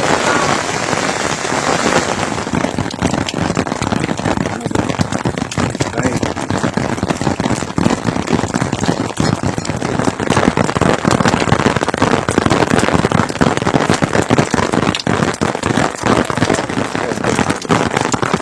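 Steady rain falling, heard as a dense crackle of drops striking a surface.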